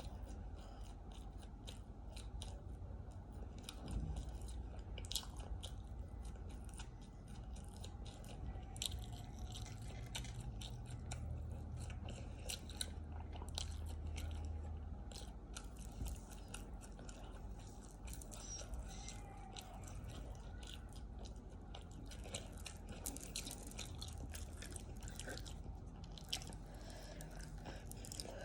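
Close-miked chewing and biting of food, with many small crunchy crackles throughout.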